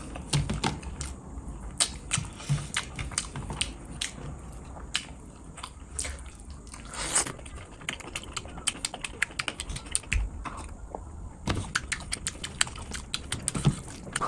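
Close-miked eating sounds: rapid, irregular wet clicks and smacks of a mouth chewing rice and fish curry, with fingers squishing the gravy-soaked rice.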